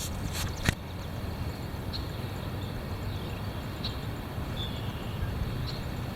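Wind buffeting the microphone: a steady low rumble, with a few sharp clicks in the first second.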